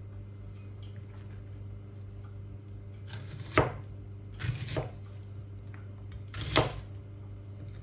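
A kitchen knife slowly cutting vegetables on a cutting board: three separate cuts, each a short slicing rasp ending in a knock of the blade on the board.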